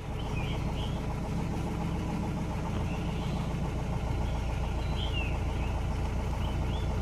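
Safari vehicle's engine running steadily at low revs, with a few short high bird chirps over it.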